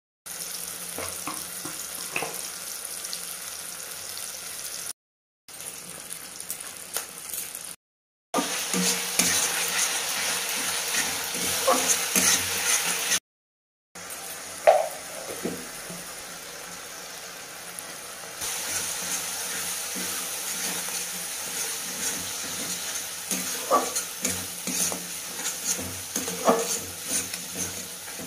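Onion-tomato masala sizzling in oil in an aluminium kadai while it is stirred, with scattered scrapes and clicks of the spatula on the pan. The sound cuts out briefly three times.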